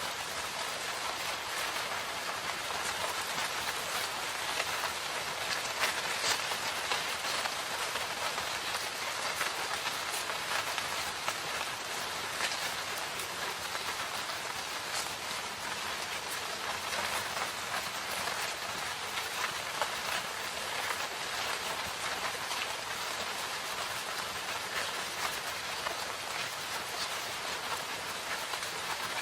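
Steady rain falling in a forest, an even hiss with many fine drop patters on foliage.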